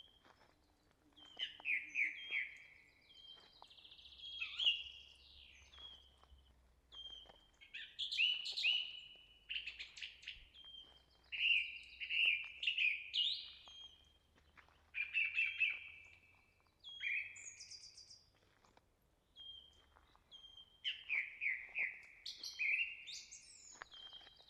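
Songbirds singing in woodland: a steady series of short phrases of quick, clear chirps and trills, a new phrase every second or two.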